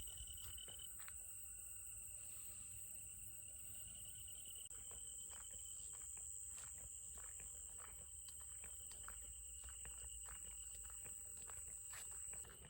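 Faint outdoor ambience: two steady high-pitched tones over a low rumble, with scattered light ticks.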